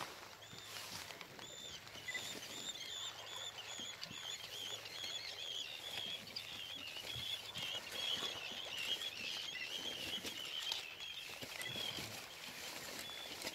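High-pitched twittering or squeaking, probably from birds, that wavers up and down several times a second and goes on almost without a break, fading out near the end.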